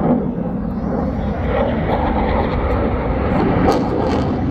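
Airplane engine noise from an aircraft flying by, a loud, steady rush.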